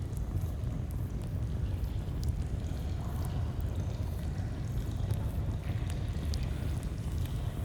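Flowing stream water running steadily with a low rush, with a campfire's sparse, faint crackles and pops scattered over it.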